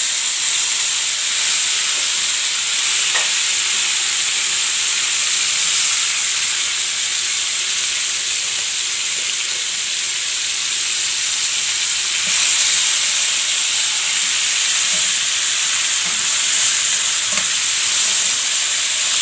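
Sliced liver frying in a pan of sauce: a steady, loud sizzle.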